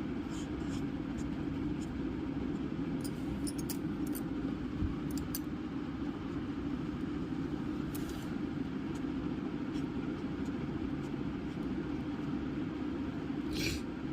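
Steady low background hum with a few brief, faint scratching sounds scattered through it.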